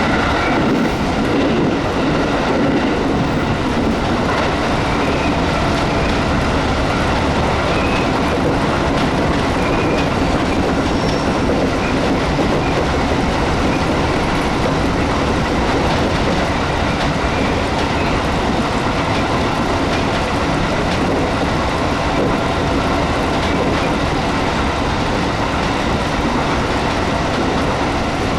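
Train running along the track, a steady loud rumble with wheels clattering over the rail joints.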